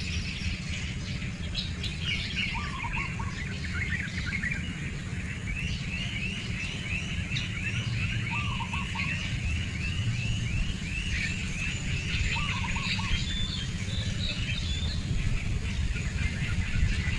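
Birds chirping and calling, with a fast run of repeated chirps in the middle, over a steady low rumble.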